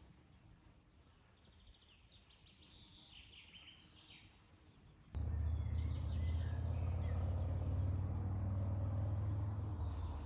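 Songbirds chirping and trilling in woodland. About halfway through, a loud steady low rumble cuts in suddenly and the birds carry on singing over it.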